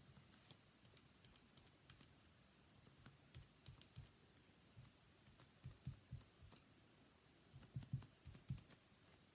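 Faint soft taps of a bath sponge dabbing liquid glue onto the back of a paper die-cut on a silicone craft mat, in small clusters about three, six and eight seconds in, over near silence.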